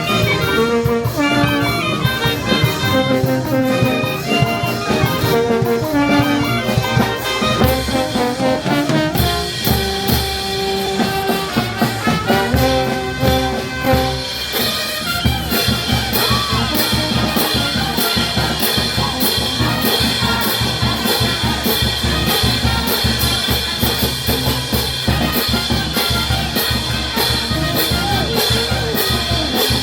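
Brass band playing, with trumpets and trombones carrying the melody over drums. About halfway through the horn melody falls back and a steady, busy beat of drums and cymbals takes over.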